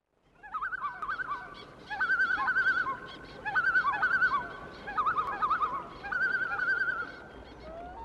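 Bird calls in rapid wavering trills, repeated in about five phrases with short pauses between. Near the end a short rising tone begins.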